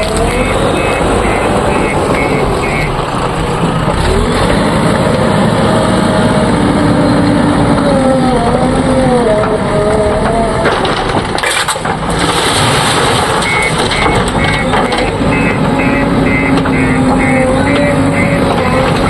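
JCB 3DX backhoe loader's diesel engine running and revving up and down as it works. A reversing alarm beeps rapidly, about three beeps a second, near the start and again through the last several seconds.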